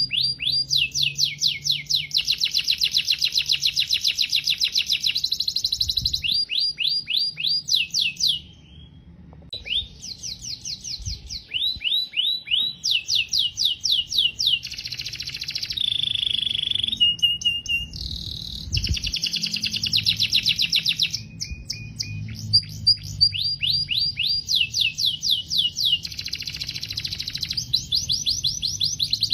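Domestic canary singing: long rolling trills of rapid, evenly repeated falling notes, switching from one trill to another every few seconds, with a short pause about eight seconds in.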